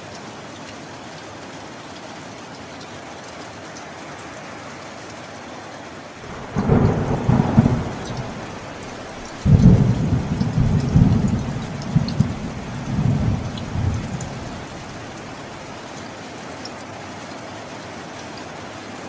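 Steady rain with thunder: a first rumble about six seconds in, then a louder peal of thunder that rolls on for about five seconds before the rain alone is left.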